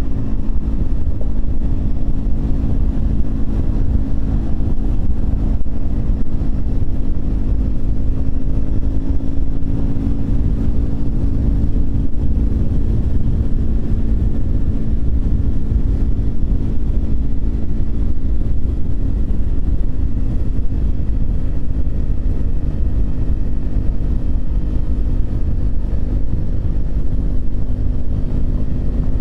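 Triumph Speed 400's single-cylinder engine running at a steady cruise, its pitch holding nearly constant, over a low rumble of wind and road noise.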